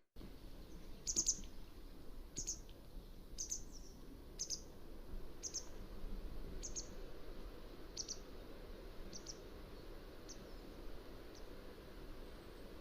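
Mountain wagtail calling: a series of short, high-pitched calls about one a second, growing fainter toward the end, over a steady background hiss.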